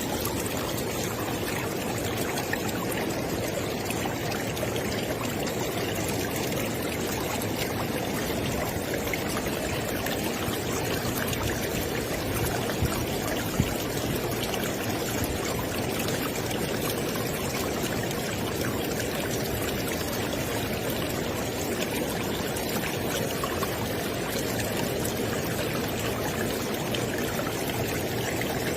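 River water flowing steadily over rocks, a constant rushing and gurgling with no change in level.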